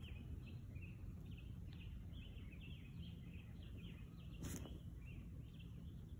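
Small birds chirping steadily, many quick short notes one after another, over a low steady rumble. A single sharp knock stands out about four and a half seconds in.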